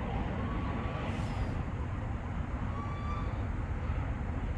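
Steady low outdoor rumble with two faint, short, high calls, about half a second and three seconds in.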